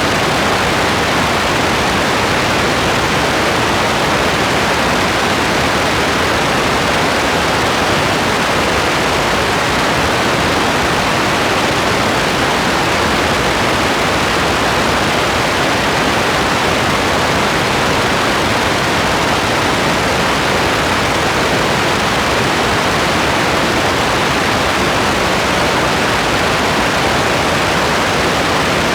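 Steady rain, an even rushing hiss with no separate drops or thunder standing out.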